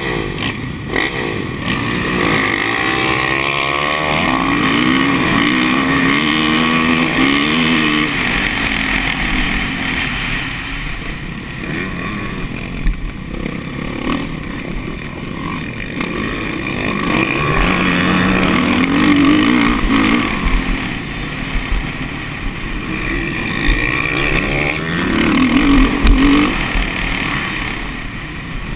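Motocross bike engines revving, the pitch rising and falling repeatedly as the bikes accelerate and back off.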